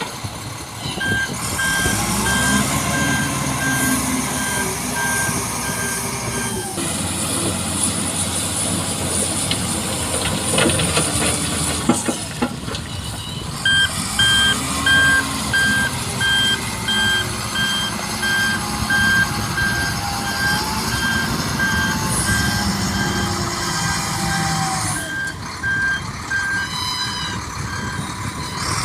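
Heavy truck's reversing alarm beeping evenly, about two beeps a second, over its engine revving up and down as it backs up for loading. The beeping stops about six seconds in and starts again about halfway through.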